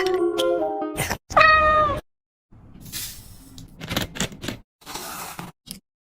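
Background music cuts off about a second in. A pet then gives one short, high call lasting about half a second, followed by several short noisy sounds.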